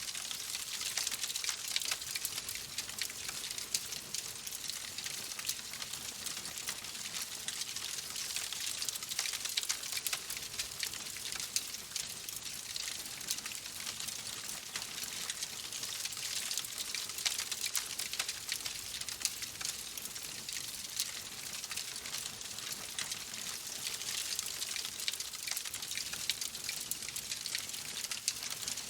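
Wood fire crackling in a fireplace: a steady hiss dense with small, sharp pops and snaps.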